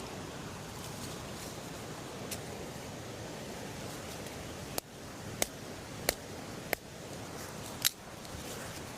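Steady rush of flowing river water, with five sharp clicks or snaps in the second half, spaced roughly half a second to a second apart.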